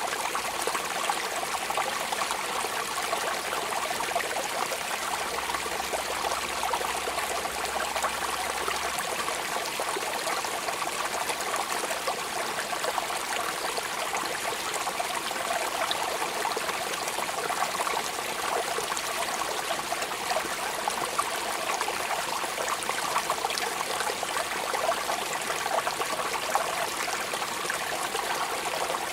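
Steady rain falling, an even wash of many small drop impacts that neither builds nor eases.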